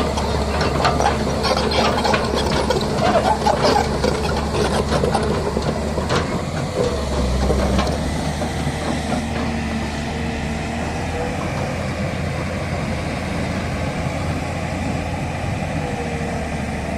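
Diesel engine of a heavy construction machine running steadily, with busier irregular clatter over roughly the first six seconds.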